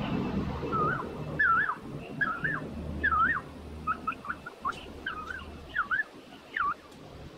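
A bird singing a run of clear whistled notes, each swooping up and down in pitch, about nine of them over six seconds, over a low background rumble.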